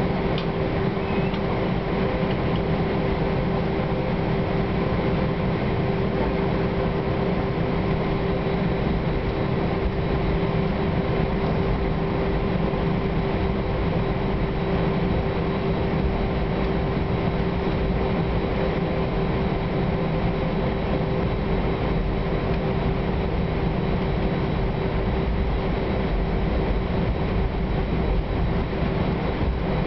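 Airbus A320 cabin noise heard from inside the cabin: a steady jet-engine drone over a low rumble, with a constant hum, holding level throughout.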